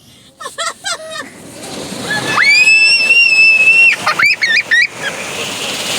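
Car wash water jets spraying against the car, heard from inside the cabin, with a high-pitched scream held for about a second and a half in the middle; the scream is the loudest sound.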